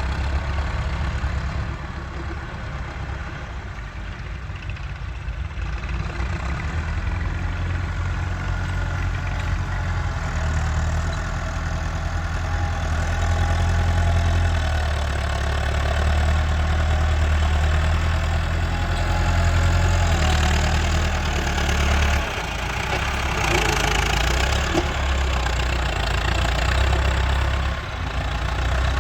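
Massey Ferguson 385 tractor's four-cylinder diesel engine running steadily, growing louder partway through and dipping briefly about two-thirds of the way in.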